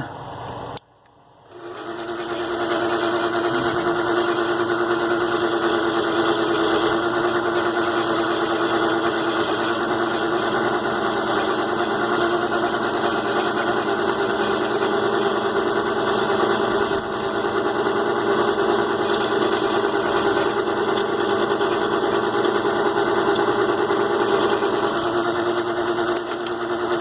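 Mini lathe's DC motor coming up to speed about a second in, then running steadily with a constant hum while it turns an aluminium workpiece.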